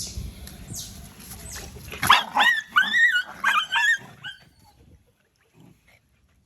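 Otters calling: a few short, falling high chirps, then a run of about five loud, high-pitched squealing calls starting about two seconds in and stopping about four seconds in.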